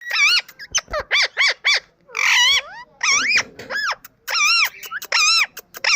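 Parrot calling: a quick run of short, high calls, each rising and falling in pitch, with a longer, harsher squawk about two seconds in.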